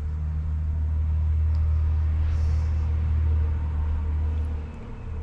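A low, steady rumble that swells and then fades near the end, with a short puff of air hiss about two and a half seconds in, as air is blown through a carburetor passage to check that it is clear.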